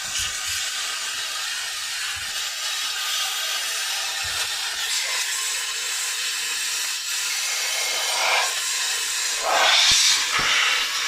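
Handheld steam cleaner jetting steam with a steady hiss, swelling into a louder gust near the end.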